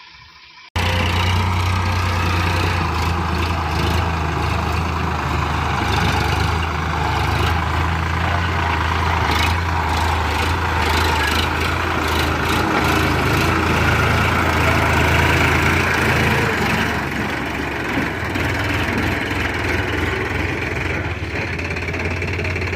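Tractor diesel engine running steadily with a deep, even hum. The sound cuts in abruptly less than a second in.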